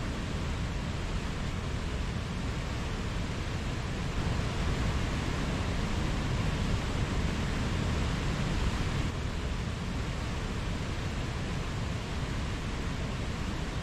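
Mountain stream flowing over rocks: a steady rush of running water, swelling slightly in the middle.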